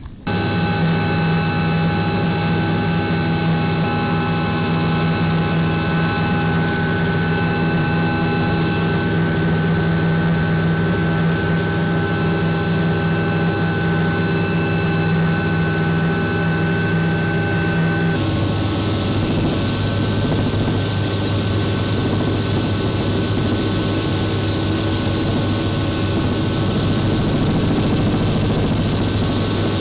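Helicopter running steadily, its engine and rotor giving a loud, even drone with several fixed whining tones. The mix of tones changes abruptly about 18 seconds in.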